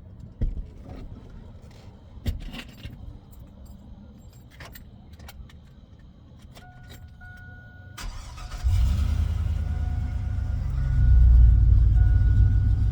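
Keys jingling and clicking, then the truck's dashboard warning chime beeping, and about eight seconds in the 2001 Chevrolet Silverado's engine starts and runs with a steady low rumble that grows louder near the end.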